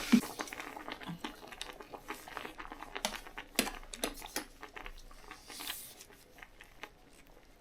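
Light, scattered clicks, taps and crinkles of small objects being handled, with a short hiss about five and a half seconds in; the handling thins out toward the end.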